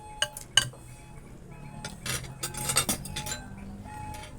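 Cutlery clinking against plates and dishes during a meal: a couple of sharp clinks in the first second, then a denser run of clinking and scraping about two seconds in.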